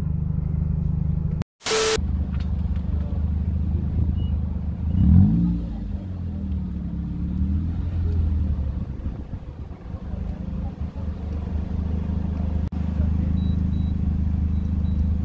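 A car engine idling with a steady low rumble, swelling in a brief rev about five seconds in and settling back to idle. A short sharp burst follows a momentary dropout about a second and a half in.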